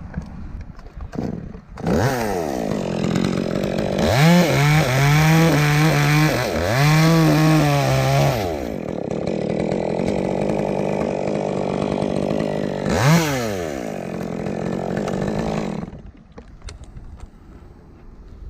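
Chainsaw revving up about two seconds in and running at high speed for several seconds, its pitch dipping and recovering repeatedly, typical of the chain working through the wood. It then drops back to idle, gives one short rev, and goes quiet about sixteen seconds in.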